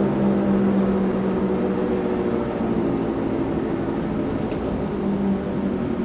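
Car engine running with a steady low drone and no clear rise in pitch.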